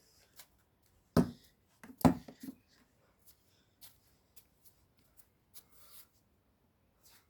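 A few short knocks and thumps, the two loudest about a second and two seconds in, followed by a quick cluster of smaller knocks and faint scattered clicks.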